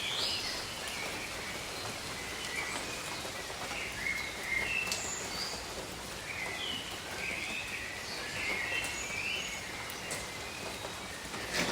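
Steady rain, with birds giving many short chirps and calls throughout.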